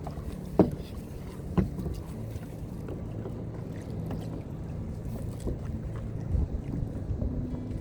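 Kayak moving on choppy sea: a steady low rumble of water and wind against the hull, with two sharp knocks about half a second and a second and a half in, and a few lighter ticks.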